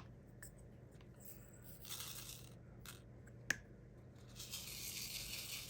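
Small resin diamond-painting drills rattling and hissing as they are poured and shaken in a plastic tray, with a few light clicks. The rattle turns steady about two thirds of the way in.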